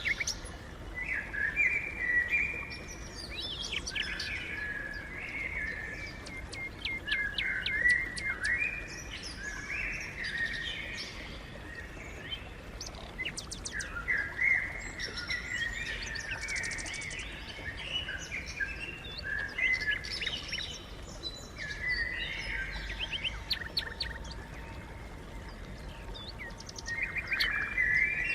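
Several sparrows chirping and chattering continuously, with many short chirps overlapping one another.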